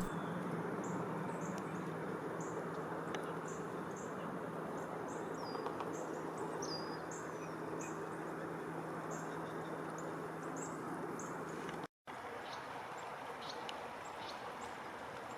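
Small songbirds giving short, high chirps, roughly one or two a second, a few with a quick downward slur, over a faint steady low hum. The sound cuts out for an instant near the end.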